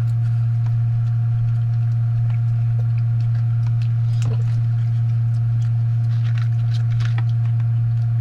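A steady low electrical hum runs throughout and is the loudest sound. A few faint clicks and smacks of someone eating come past the middle.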